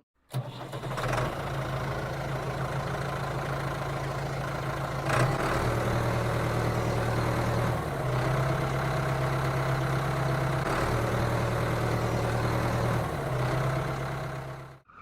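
Motor running steadily with a low hum, its pitch shifting slightly every couple of seconds, with a short knock about five seconds in.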